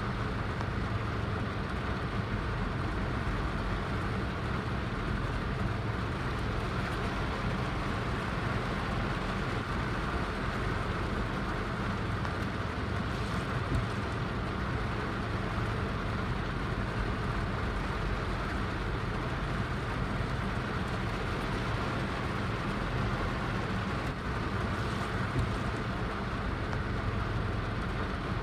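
Heavy rain falling steadily in an unbroken, even hiss.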